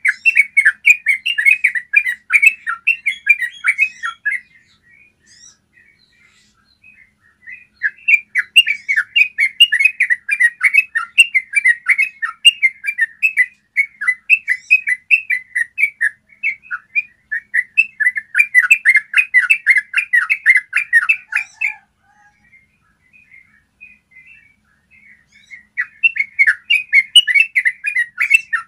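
Yellow-vented bulbul singing its long, rapid, chattering 'ropel' song: runs of quick clear notes in several bouts of a few seconds up to about eight seconds, with short pauses between them.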